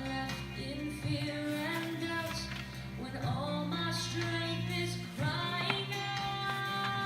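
Pop song with a woman singing the lead melody over instrumental backing.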